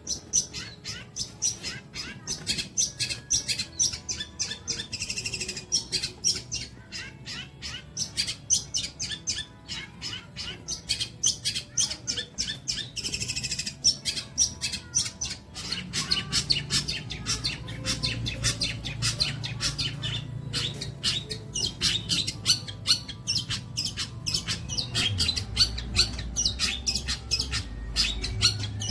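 A long-tailed shrike singing a rapid, varied stream of short chirps, with harsher buzzy notes about five and thirteen seconds in. A low hum comes in about halfway through.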